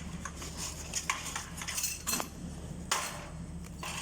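Steady low hum of an aircraft cabin, with scattered sharp clicks and clinks about a second apart.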